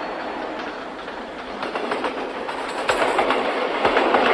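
Train running on rails, its wheels clacking over the rail joints, the clatter growing louder about halfway through.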